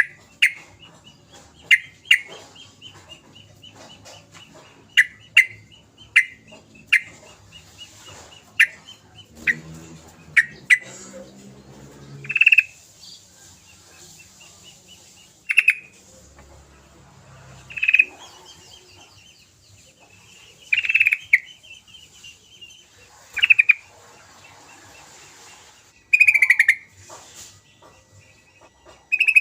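Yellow-vented bulbul (trucukan) calling with short, sharp, repeated notes. They come quickly at first, then as louder single calls every two to three seconds, over a faint steady high buzz.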